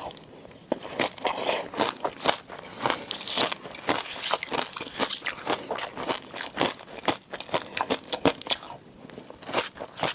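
Close-miked eating sounds: a person biting and chewing, with dense runs of short crunchy, crackly clicks and brief pauses near the start and about nine seconds in.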